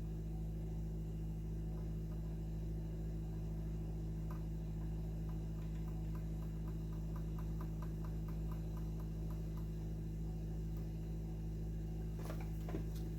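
Steady electrical mains hum, with a run of faint, evenly spaced clicks at about three a second through the middle: a PID temperature controller's buttons being pressed to step its set point down. A few louder handling clicks near the end.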